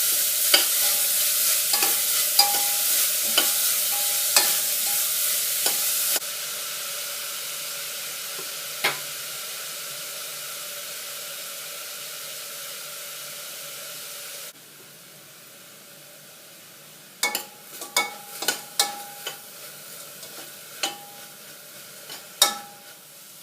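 Chopped onions sizzling as they sauté in coconut oil in a pan, stirred with a spatula that clacks against the pan. The sizzle drops suddenly in two steps, about six and fourteen seconds in. A run of stirring clacks comes back near the end.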